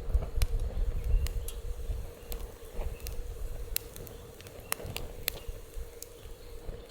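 Wood fire crackling in a fire pit, with sharp pops scattered irregularly over a low rumble that eases about halfway through.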